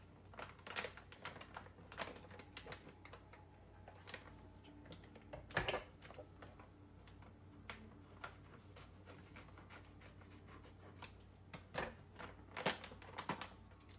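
Scattered light clicks and taps of objects being handled, with a louder knock about six seconds in and a cluster of taps near the end.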